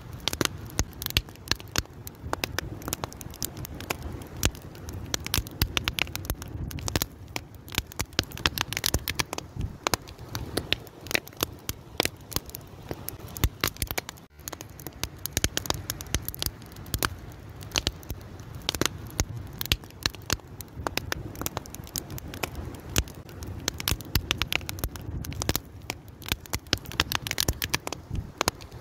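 Wood fire crackling: a dense run of irregular pops and snaps over a low, steady rumble of burning, with a momentary break about halfway through.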